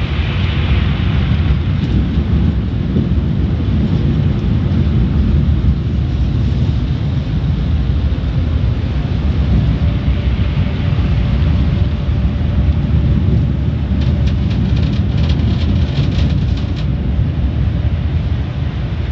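Car wash running: water spray and machinery make a loud, steady low rumble, with a patter of rapid clicks about three quarters of the way through.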